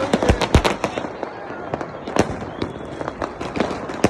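New Year's fireworks and firecrackers going off: a rapid, irregular barrage of sharp bangs and cracks that overlap one another, densest in the first second and continuing in scattered reports after that.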